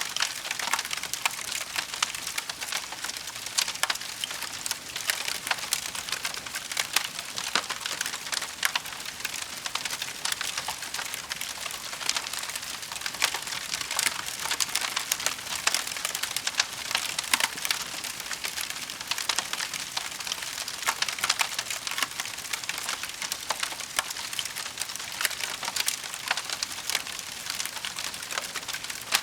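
Wood fire burning with a steady hiss and constant dense crackling, many small sharp pops.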